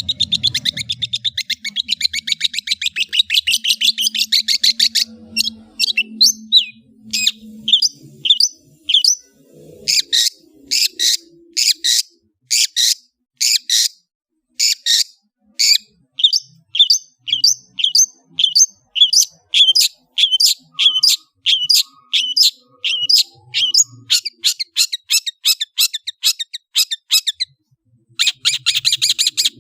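Long-tailed shrike (cendet) singing: a fast, rattling chatter of high notes for the first five seconds or so, then a long run of sharp, separate notes about two a second, breaking into fast chatter again near the end.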